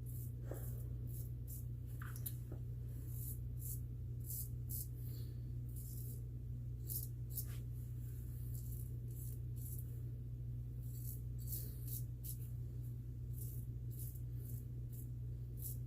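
Short, irregular scrapes of a razor blade cutting through lathered stubble, many strokes in quick succession, over a steady low hum.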